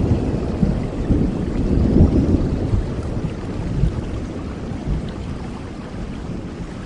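Rolling thunder rumbling low over steady tropical rain, dying away over a few seconds while the rain hiss carries on.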